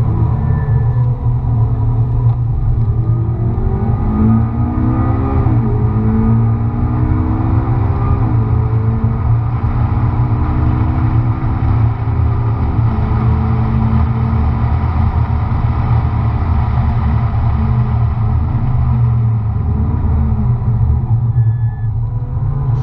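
McLaren MP4-12C's twin-turbo V8 heard from inside the cabin under hard acceleration, its pitch rising through the gears with three quick upshifts in the first half, then running steadily over a constant low rumble of engine and road noise.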